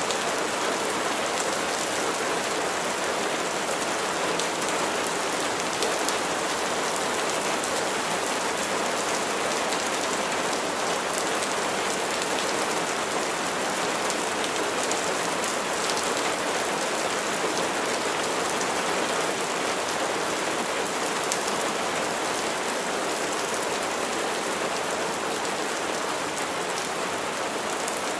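Steady rain falling on a surface: a constant hiss of rainfall with many small drop ticks, without a break.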